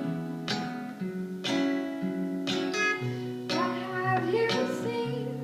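Acoustic guitar strummed, chords struck about once a second and left to ring.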